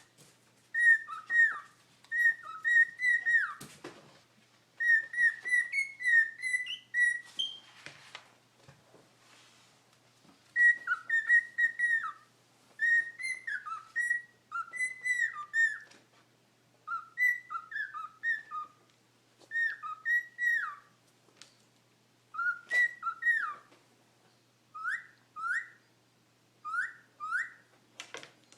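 Pet cockatiel whistling and chattering: phrases of short, high whistled notes that slide down in pitch, broken by pauses of a second or two. Near the end the notes turn to short rising whistles, and a few brief harsh noises come in between.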